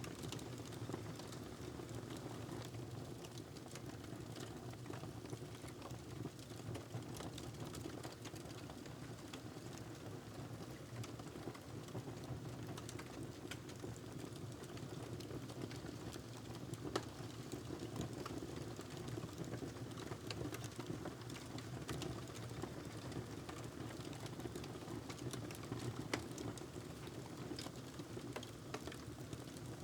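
Wood fire crackling in a fireplace: a steady low rumble with irregular small crackles and pops, a louder pop a little past halfway and another near the end.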